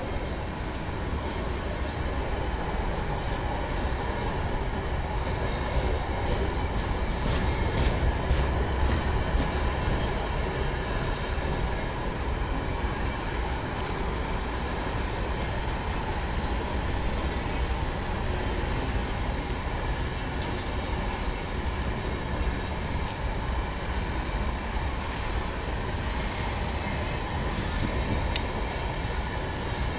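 Freight train hopper wagons rolling past close by: a steady rumble of steel wheels on the rails, with a run of clicks over the rail joints about a quarter of the way in.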